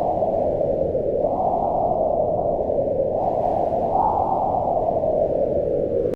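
Wind blowing in a continuous low rush that swells and rises in pitch about a second in and again about four seconds in, then eases back down.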